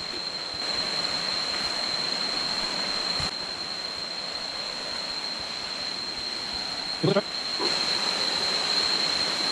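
A steady rushing of flowing water, growing louder and softer in steps, under one unbroken high-pitched insect drone.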